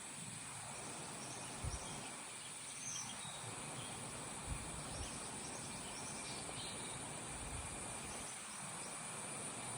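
Outdoor ambience with a steady high-pitched insect drone and a few faint chirps, broken by a couple of low thumps.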